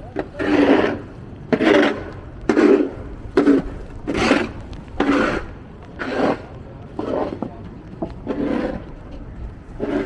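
Footsteps of running shoes in snow, each step a short crunch, about one a second.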